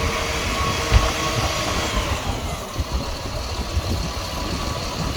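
Jet fuel truck's engine and PTO-driven fuel pump running steadily while pumping fuel, with one short knock about a second in.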